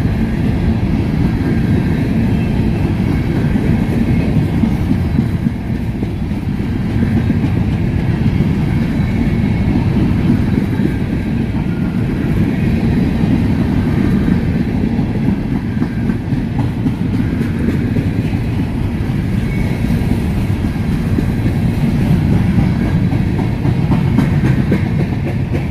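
Freight train of covered hopper cars rolling steadily past, the wheels rumbling on the rails.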